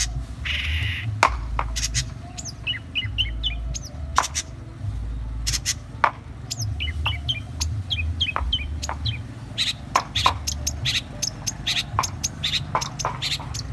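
Long-tailed shrike singing vigorously: a fast, irregular run of sharp, clipped calls mixed with short bursts of quick twittering notes.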